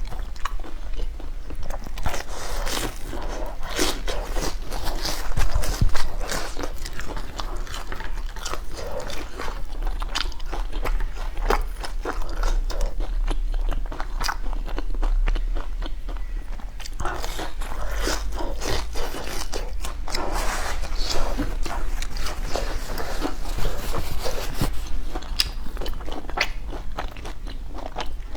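A person biting and chewing food close to the microphone, with many short, sharp crunches.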